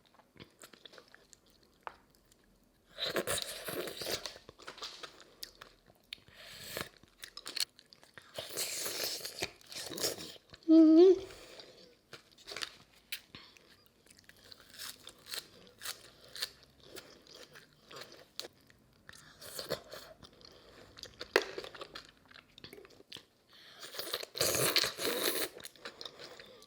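A person eating close to the microphone, taking crunchy bites and chewing in irregular spells, from a saucy, crunchy fresh oyster dish. A short rising hum of 'mm' comes about eleven seconds in.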